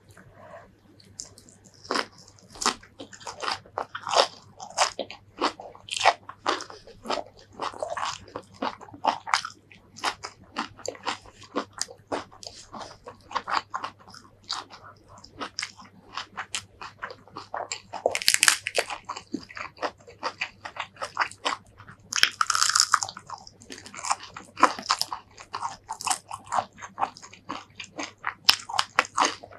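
Close-miked chewing and crunching of raw leafy greens wrapped around Thai shrimp paste chilli sauce, with rice and fried fish, in quick wet chews. Two louder spells of crunching come past the middle.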